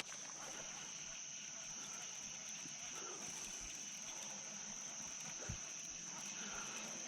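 Steady, high-pitched insect drone, a continuous buzz of crickets or cicadas, with a single sharp click right at the start.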